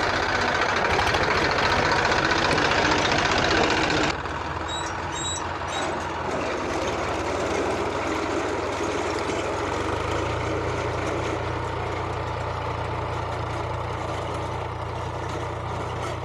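Farm tractor engine running close by. About four seconds in, the sound drops abruptly, and it then runs on more steadily with a low hum.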